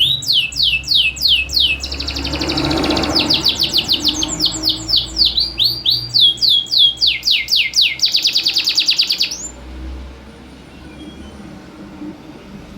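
Domestic canary singing loudly: runs of repeated downward-sweeping whistled notes, several a second, alternating with rapid trills, with short gaps between phrases. The song stops about three-quarters of the way through, leaving a low background hum.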